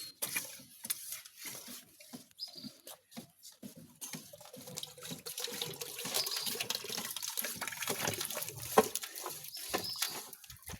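Water gurgling and splashing in a drain pipe as it is cleared, with scattered knocks and scrapes. The water sound grows fuller and louder about four seconds in.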